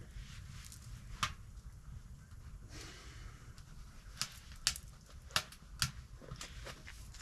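A handful of sharp clicks or knocks, one about a second in and four more close together later on, over a low steady rumble.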